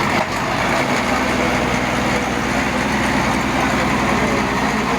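A motor vehicle's engine running steadily at idle, a constant low hum under a noisy wash.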